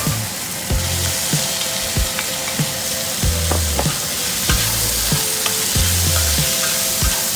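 Bitter melon sizzling as it is stir-fried in a hot pan, with a steady hiss and the spatula clicking and scraping against the pan many times.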